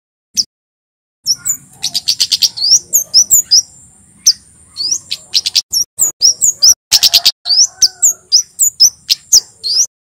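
Male kemade jawa, a small flowerpecker-type songbird, singing a loud, fast run of sharp high chirps and quick up-swept notes over a thin, steady high buzz. The song starts about a second in after a brief pause, with a short break in the buzz near the middle.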